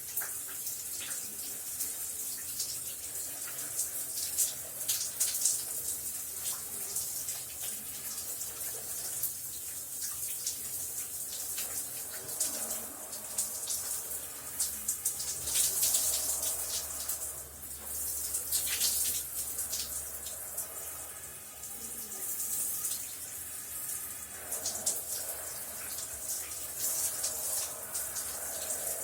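A shower running: water spraying and splattering onto a tub or tiled floor, steady with small swells and many fine splashes.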